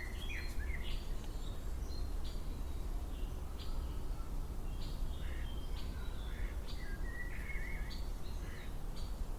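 Several songbirds calling: short high chirps repeated throughout, with warbling phrases at the start and again about three quarters of the way through, over a steady low rumble.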